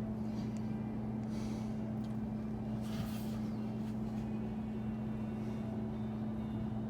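Steady low mechanical hum holding two even tones without rising or falling, with a faint brief hiss about a second and a half in and another about three seconds in.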